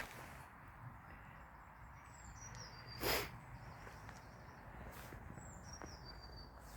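A songbird singing short, high, falling phrases, twice, over steady outdoor background. A brief loud rustle about three seconds in is the loudest sound.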